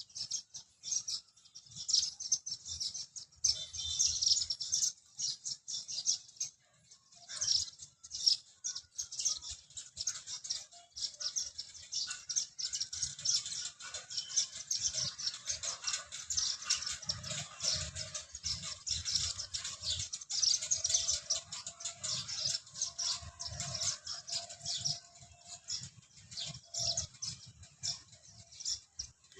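A flock of small birds chirping and twittering together: a dense, continuous chatter of short, high chirps that overlap without a break.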